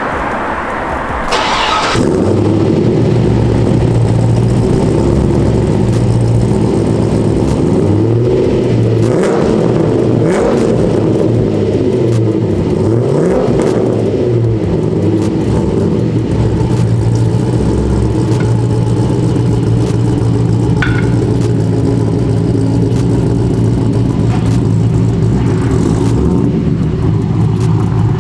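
Corvette C6 V8 with a BTR Stage 3 camshaft and headers and X-pipe but no axle-back mufflers, running very loud. It gets louder about two seconds in, and its pitch rises and falls several times in the middle.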